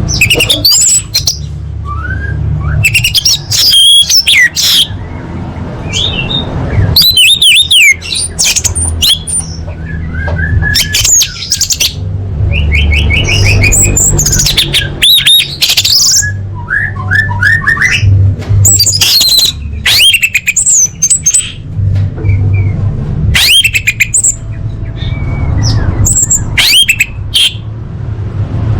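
Orange-headed thrush (anis merah) singing a loud, varied song of rapid whistled and chattering phrases with short pauses between them, over a steady low hum.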